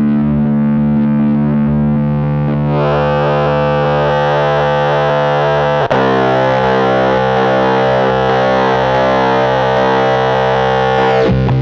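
Electric guitar chords through the AC Noises URLA square-wave CMOS fuzz, with the expression pedal sweeping the dual resonant filter's high-pass side. A held fuzzed chord turns brighter about three seconds in, and a new chord is struck about six seconds in.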